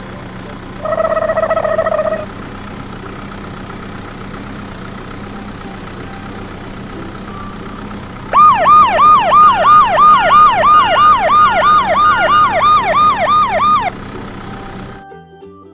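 Fire-engine siren sounds: a single horn blast of about a second and a half near the start, then, after a pause filled by a steady hiss, a fast yelp siren sweeping up and down about three times a second for about five seconds.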